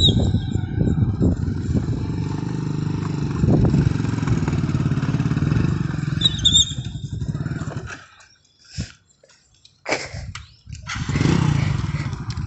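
A motor vehicle engine, motorcycle-like, running steadily. It drops away about eight seconds in, leaving a few brief knocks, and comes back about three seconds later. A short high chirp sounds about six seconds in.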